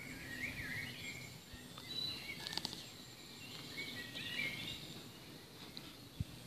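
Songbirds singing short warbling phrases over a low, steady rumble. A quick burst of sharp clicks comes about two and a half seconds in, and a brief low thump near the end.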